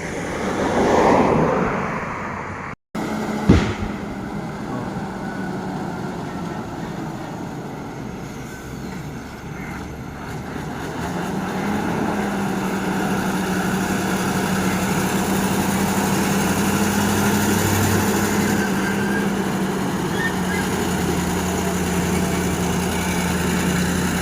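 Heavy truck diesel engine running with a steady low drone, growing louder about eleven seconds in. The sound cuts out for an instant about three seconds in, and a sharp click follows just after.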